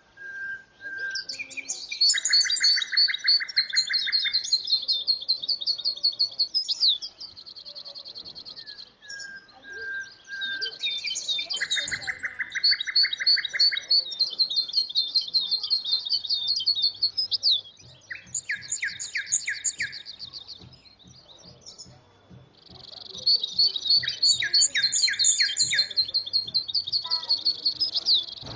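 A songbird singing long, varied phrases of rapid repeated notes and trills, with short pauses between phrases.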